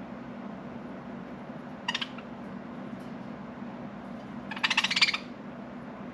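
Budgerigars calling: a short burst of chirping about two seconds in, then a louder, longer chattering call of rapid pulses about four and a half seconds in.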